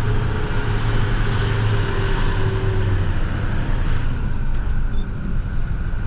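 Heavy plow truck's engine running steadily with its hydraulic pump engaged; a hiss and a faint whine die away about three to four seconds in.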